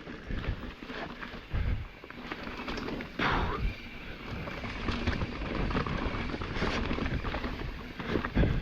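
Ibis Ripmo mountain bike descending a rough trail: tyres rumbling over dirt and rock with irregular knocks and rattles from the bike, and wind on the microphone.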